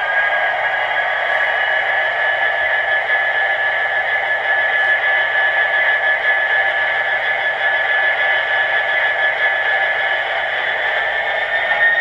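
Sound-fitted model Class 66 diesel locomotive running through its small onboard loudspeaker: a steady thin engine sound with a whine over it. The whine rises in pitch near the end as the engine picks up.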